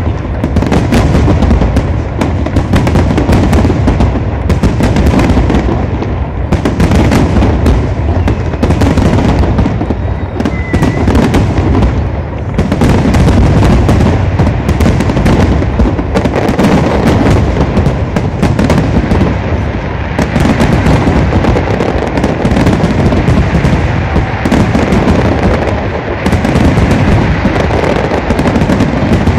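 Aerial fireworks display: a dense, loud barrage of shells bursting, many bangs and crackles overlapping with hardly a gap.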